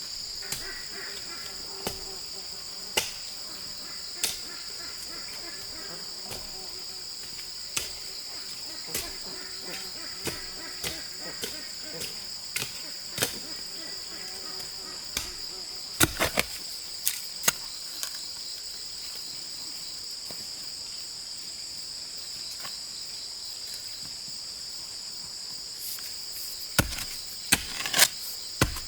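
A steady, high-pitched chorus of insects runs throughout. Irregular sharp knocks and taps sound over it, bunched together about halfway through and again near the end.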